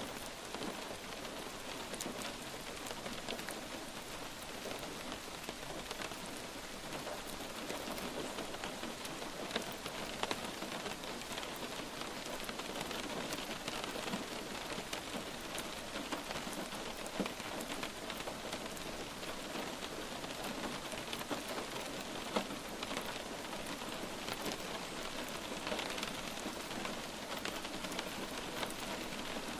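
Steady light rain falling on a surface, an even hiss with many small drop taps and a few louder individual drips.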